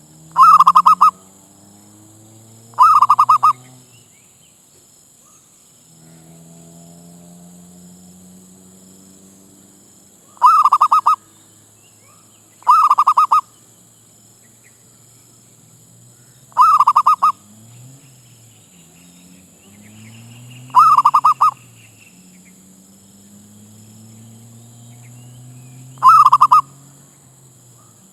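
Zebra dove calling: seven loud bursts of rapid staccato cooing notes, each under a second long and a few seconds apart.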